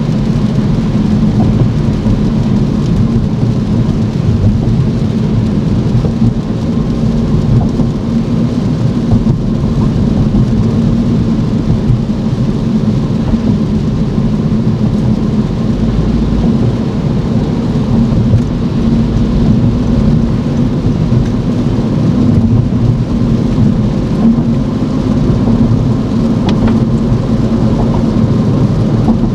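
Car driving in the rain: a steady low rumble of tyre and engine noise, mixed with rain noise.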